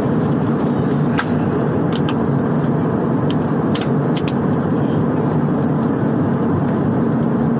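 Steady drone of an aeroplane's engines and rushing air inside the passenger cabin, with a constant hum and a few faint clicks in the first half.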